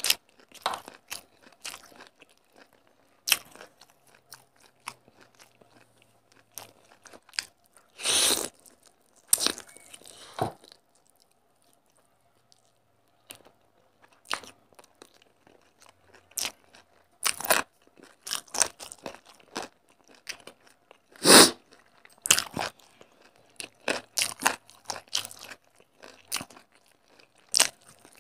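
Close-miked eating: a person chewing mouthfuls of rice and chicken taken up by hand, with irregular sharp mouth clicks throughout, the loudest about eight and twenty-one seconds in, and a short lull around eleven to thirteen seconds.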